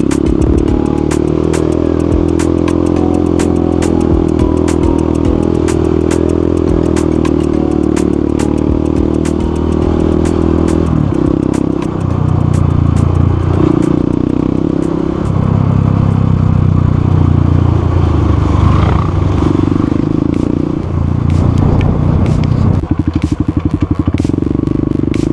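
Motorcycle engine running while riding, holding a steady note for about ten seconds and then rising and falling repeatedly as the throttle and gears change. Short clicks and crackles run through it.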